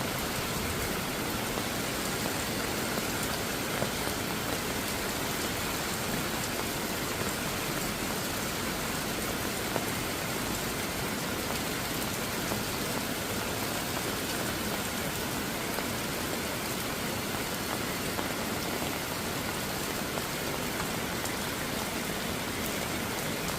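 Steady rain falling and pattering on surfaces, with a few slightly louder single drops.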